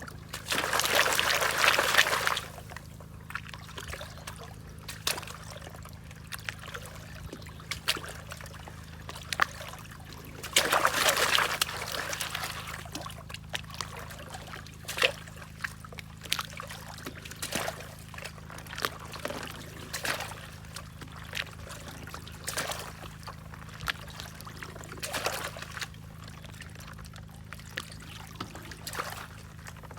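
Water pouring and splashing as river sand is washed for gold. Two longer pours come about a second and about eleven seconds in, with many short splashes and drips between, over a faint steady low hum.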